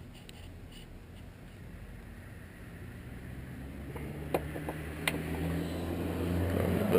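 A low mechanical hum, like an engine running, growing gradually louder, with a few sharp clicks about four and five seconds in.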